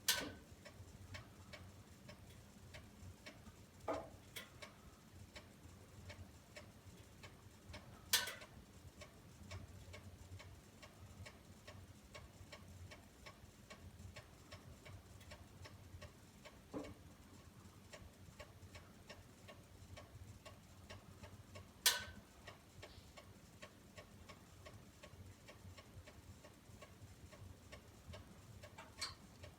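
A fire in a fireplace crackling faintly and steadily, with a handful of louder, sharper pops spread through.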